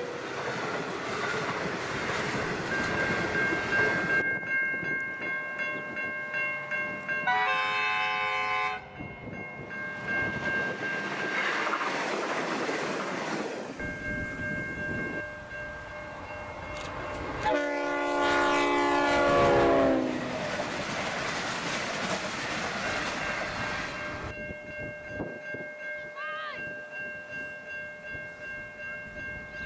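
Passenger train carriages rolling past with clickety-clack of wheels on the rails. A short multi-note train horn sounds about seven seconds in, and a louder, longer horn blast comes about eighteen seconds in, falling in pitch as the train passes. Level crossing bells ring steadily in between.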